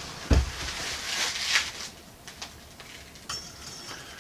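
Handling noise: a dull knock, then about a second and a half of rustling, followed by a few small clicks.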